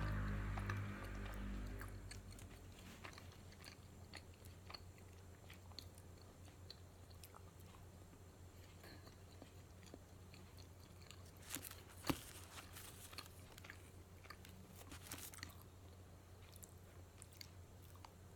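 Close-miked chewing and biting of matcha donuts: soft, wet mouth sounds with small crunches and clicks, and a sharp click about twelve seconds in.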